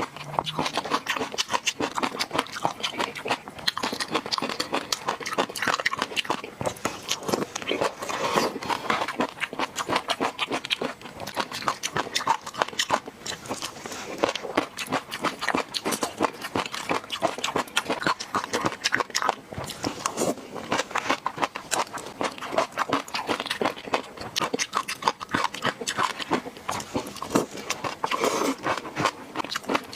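Close-miked chewing and wet mouth smacking while eating fish roe sauce: dense, rapid sticky clicks and crackles that go on without a break.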